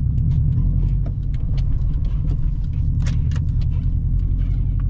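Subaru Impreza WRX's turbocharged EJ20 flat-four engine running steadily at low speed as the car creeps along, a low drone with scattered light clicks and rattles over it.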